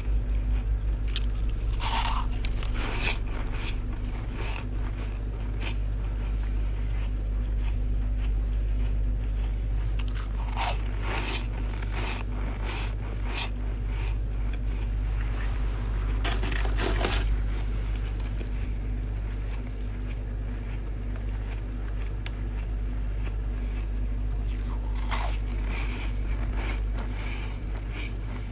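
Chest-freezer ice being bitten and chewed: a run of crisp crunches and scrapes, with the strongest bites about 2, 11, 17 and 25 seconds in. A steady low hum runs underneath.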